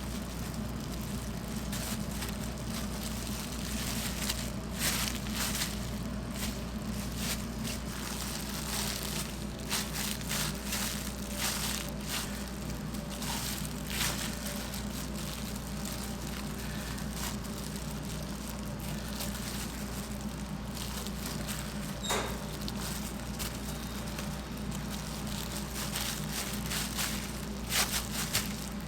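Irregular crackling and crunching from pork cutlet preparation, over a steady low hum of kitchen equipment.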